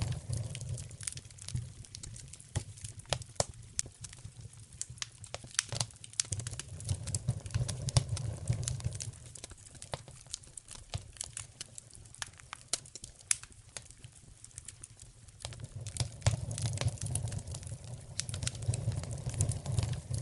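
Wood fire in a fireplace crackling and popping, with many sharp snaps of varying loudness over a low rumble that swells and fades several times.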